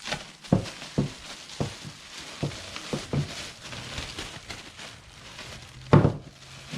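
Crinkling rustle of the oil filter kit's plastic packaging being thrown out, with several sharp light knocks from handling, the loudest about six seconds in.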